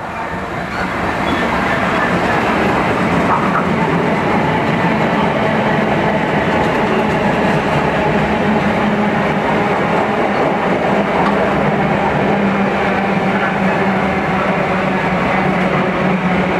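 Diesel freight locomotive passing close, followed by a long train of tank wagons rumbling by at speed with the clatter of wheels on the rails. The sound builds over the first two seconds and then holds steady, with a low hum under it.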